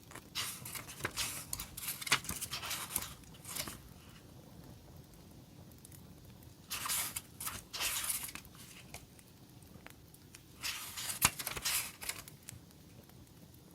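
Paper and plastic stationery packaging being handled, rustled and torn open in three bursts, with faint crackling underneath between them.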